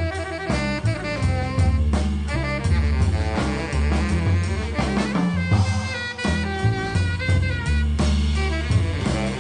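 Swing-style jazz music: saxophone and brass playing melodic lines with vibrato over a drum kit and a moving bass line.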